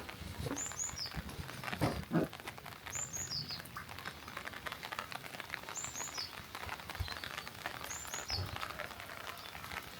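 Rain pattering and dripping, with a bird repeating a short, high call, a quick falling phrase of a few notes, about every two to three seconds. A few soft low thuds come in between.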